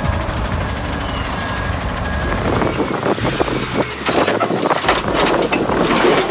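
A heavy truck's engine running, with dense clattering and crunching that builds up through the second half.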